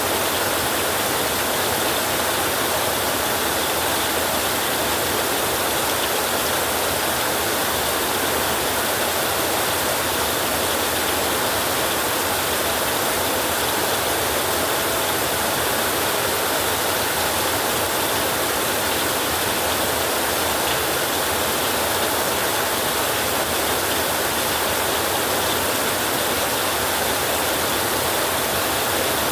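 Heavy rain falling steadily on a roof, an even, unbroken wash of noise with no thunder claps.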